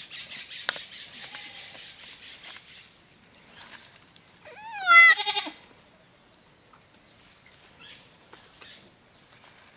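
A young goat bleats once, loudly, about five seconds in, a single wavering call. Before it, a steady hiss runs for the first three seconds.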